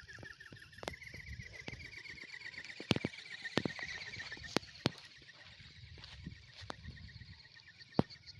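Faint, rapidly pulsing whine of an RC ornithopter's brushless motor and flapping drive, rising a little in pitch a second or so in. Wind rumbles on the microphone, with a few sharp clicks, the loudest about three and eight seconds in.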